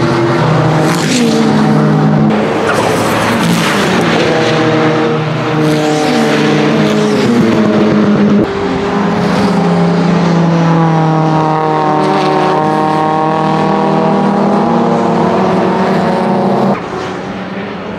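Lancia Delta Integrale race car's turbocharged 2.0-litre 16-valve inline-four under hard acceleration. The engine pitch climbs and drops back again and again, as with gear changes. The sound eases off near the end.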